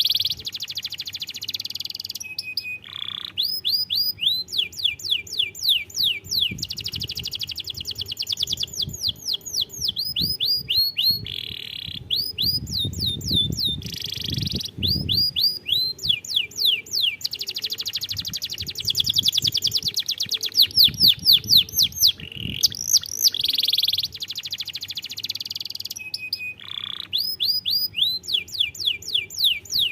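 Domestic canary singing a long, continuous song: runs of quick down-sweeping notes, several a second, alternating with dense rolled trills, with only brief pauses.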